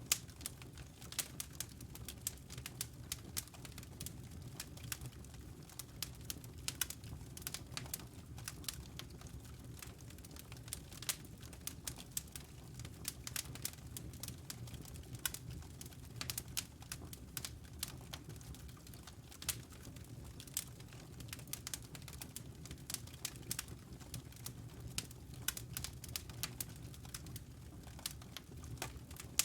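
Wood fire burning in a fireplace, crackling with many quick, irregular sharp pops and snaps over a low, steady rumble.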